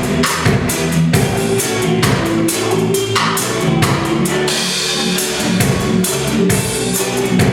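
A live band playing with a drum kit, bass and guitar in a steady rhythm.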